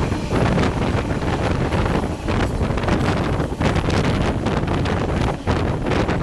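Wind buffeting the microphone over the steady running noise of a passenger train, with irregular knocks and clatter throughout.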